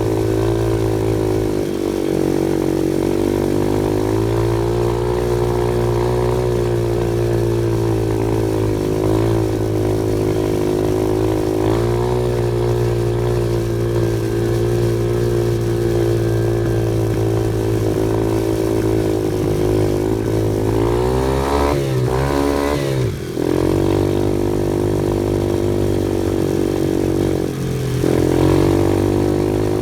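Off-road vehicle engine running steadily under way, its pitch wavering with the throttle. It drops and climbs again about two-thirds of the way through, and once more near the end.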